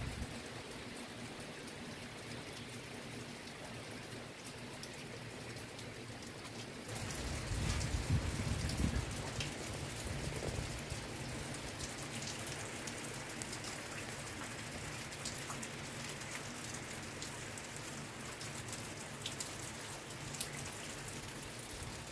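Steady rain falling, with many small drop ticks. About seven seconds in it grows heavier and louder, and a low rumble comes in under it.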